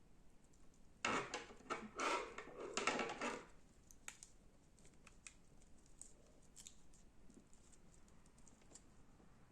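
Slime being squeezed and worked by hand, giving a dense run of crackling, popping clicks for about two seconds, then scattered single clicks.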